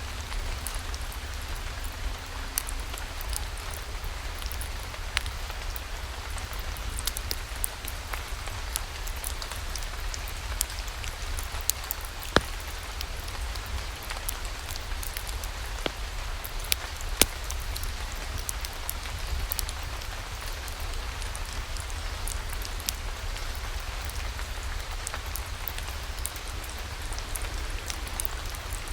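Steady rain falling, with many scattered sharp clicks over a steady low rumble.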